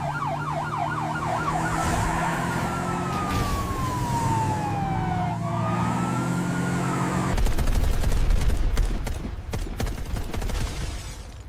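Police siren: a rapid yelp that slides into a long falling wail and then rises again, over a steady low drone. A little over seven seconds in it gives way to a loud rumbling noise full of crackles that dies down near the end.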